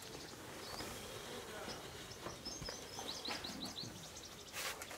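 Small birds chirping faintly: a run of short, high chirps from about a second in until near the end, over a low background hum of outdoor noise.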